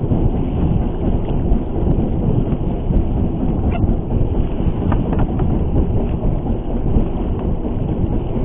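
Steady low rumble aboard a fishing boat on a rough sea, with a few faint clicks in the middle.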